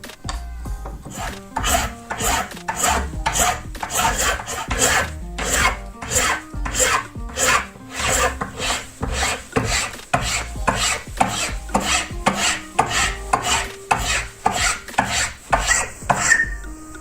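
Hand abrasive tool worked back and forth over the knife in steady rasping strokes, about two a second.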